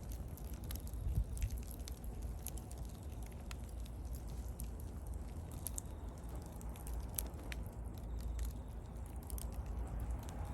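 Wood bonfire burning: scattered sharp crackles and pops over a low, steady rumble.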